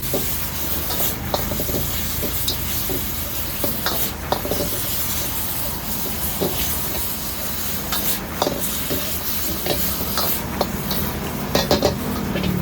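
Stir-frying in a wok: food sizzling with a steady hiss, while a metal spatula clanks and scrapes against the pan at irregular intervals, with a quick run of clanks near the end.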